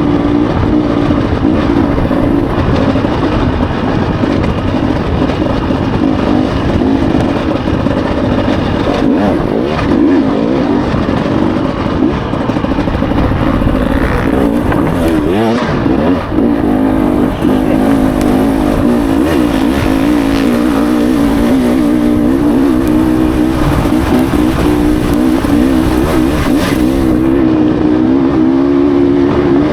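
Dirt bike engine running at a fairly steady throttle, its pitch wavering slightly up and down.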